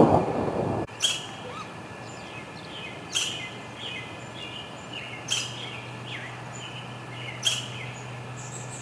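Thunder rumbling loudly for the first second, then cutting off. After it, a songbird repeats a short phrase about every two seconds, each opening with a sharp high note and falling into a few lower chirps.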